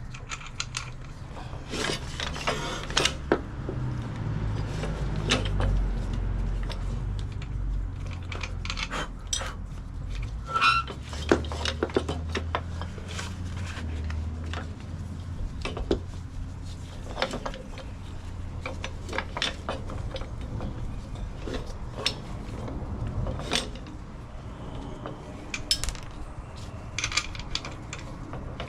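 Irregular metallic clinks and clanks of hand tools and steel suspension parts being handled, over a low rumble.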